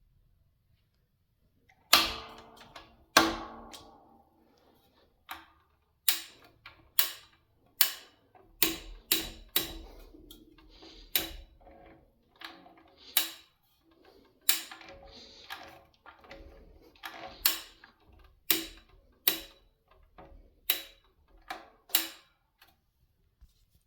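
Sharp metallic clicks and knocks, about twenty at uneven intervals, each leaving a brief ring: the metal parts of a vintage all-metal KDK desk fan being handled.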